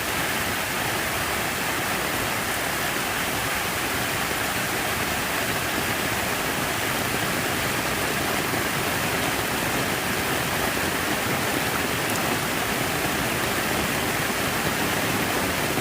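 Steady rush of falling, splashing water from an outdoor water feature, an even unbroken noise with no change.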